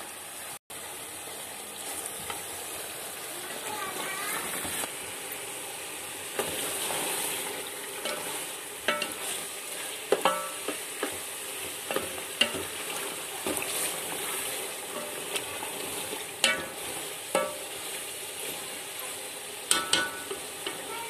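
Chicken biryani masala sizzling steadily as it fries in oil in a metal pot, stirred with a wooden spatula. It is at the bhuna stage, fried until the oil has risen to the top. From about eight seconds in, the spatula scrapes and knocks against the pot, several knocks ringing briefly.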